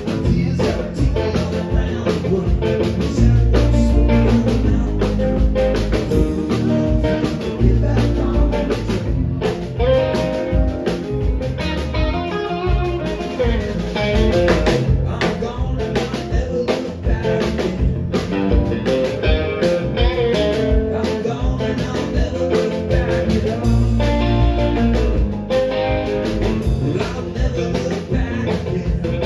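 Live rock band playing: guitar, bass, keyboards and drums.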